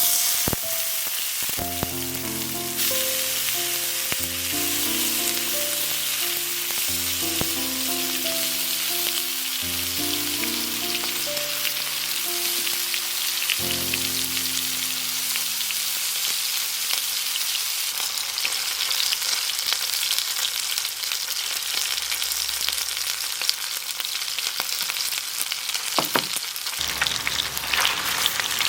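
Food frying and sizzling in hot fat on a charcoal-heated shichirin grill, a steady crackling hiss with a sharp pop near the end. Light background music plays over the first half and then stops.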